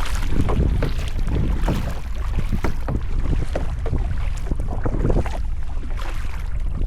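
Wind rumbling on the microphone over irregular splashes of water around a sit-on-top kayak being paddled.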